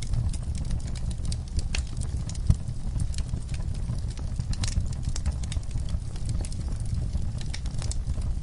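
Wood fire crackling in a fireplace: frequent sharp pops and snaps over a steady low rumble, with one louder pop about two and a half seconds in.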